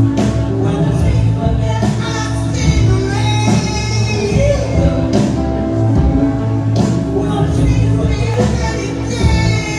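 Live band performing a soft-rock song, with a steady bass line under sung vocals.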